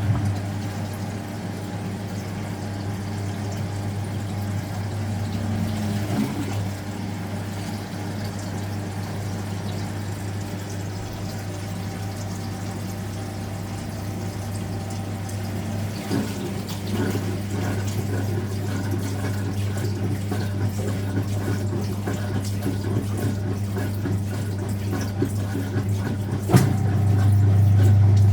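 Speed Queen top-loading washing machine running, with a steady motor hum and water moving in the tub. Near the end a click sounds and the motor hum becomes louder.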